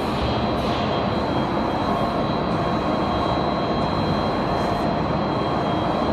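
A TOS lathe running steadily, a constant mechanical hum with a steady high whine over it.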